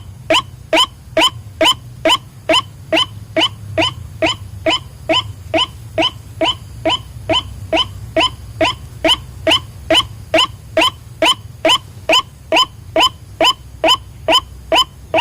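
White-breasted waterhen (ruak-ruak) call played as a bird lure: a short, harsh 'kwak' note repeated at a steady rhythm, about two and a half calls a second, over a faint low hum.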